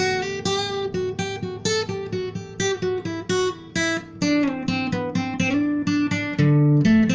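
Acoustic guitar playing an instrumental tune, a steady run of plucked notes with a melody over lower bass notes.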